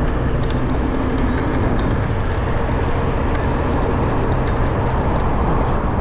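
Steady rush of wind on the microphone of a moving bicycle, mixed with the hum of road traffic passing close by.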